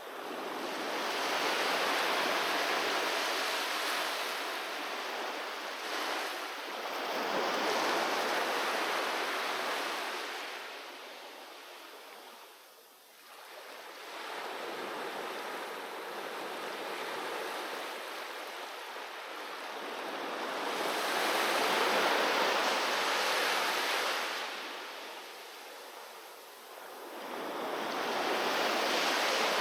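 Sea waves breaking on a beach, the surf surging and ebbing: each wave swells to a rushing peak and then washes back, about one every six to eight seconds.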